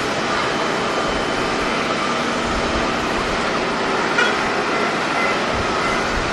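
Steady roar of jet airliner engines with a faint high whine, mixed with gusting wind buffeting the microphone.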